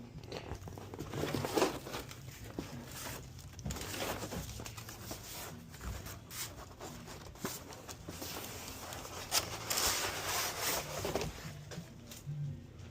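A sheet of cardboard being handled and spread out on the ground, with irregular rustling, crinkling and scraping.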